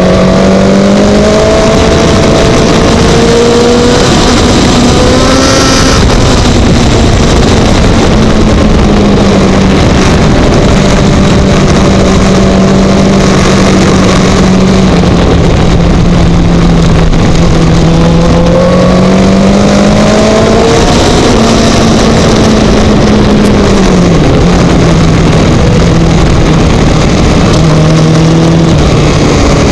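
Racing motorcycle engine at high revs, heard from an onboard camera, its pitch stepping up and falling away several times with gear changes and braking, over heavy wind rush.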